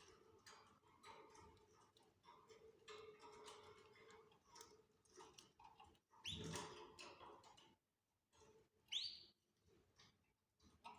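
Faint canary chirps among scattered soft clicks and taps, with two brief rising calls about six and nine seconds in.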